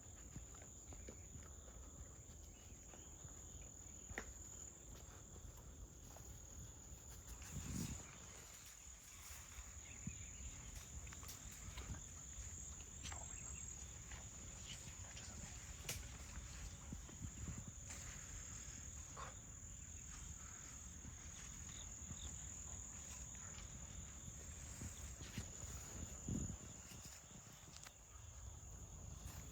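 Insects trilling steadily at one high pitch, with scattered faint clicks and rustles and two brief low thumps, about 8 and 26 seconds in.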